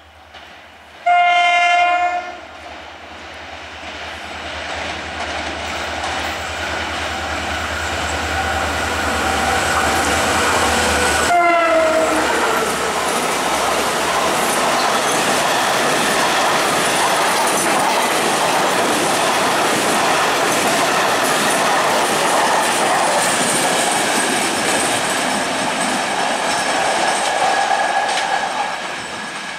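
Diesel freight locomotive sounds its horn once, a loud blast of about a second, about a second in, then gives a short horn note falling in pitch as it goes by. A long container freight train then rumbles past, wheels clattering over the rail joints, easing off near the end.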